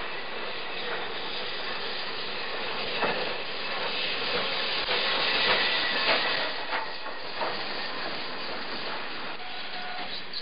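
A train passing, a steady rushing noise with the wheels clacking over rail joints, loudest about halfway through and easing off near the end.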